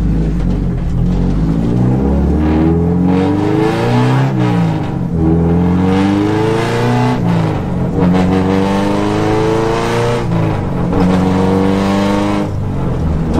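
1993 Honda Civic Si's engine and exhaust, heard from inside its gutted cabin, revving up hard and falling back about four times as the car accelerates; super loud.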